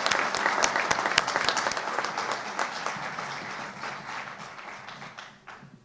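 Audience applauding: a dense patter of hand claps that steadily fades away and dies out near the end.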